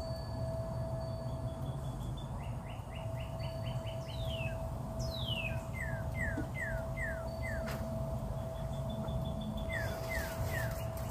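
Birds singing: short downslurred whistles in groups of three, a quick trill of rising notes about two seconds in, and two high downward sweeps around four and five seconds in. Under them run a steady hum tone and a low rumble.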